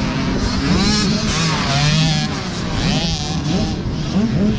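Several youth 65cc two-stroke motocross bikes racing, their engines revving up and down and overlapping one another.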